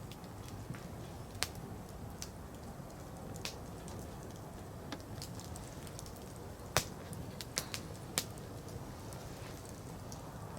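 Firewood burning in a campfire, with scattered sharp crackles and pops over a steady low background. The loudest pop comes about seven seconds in, followed by a few more close together.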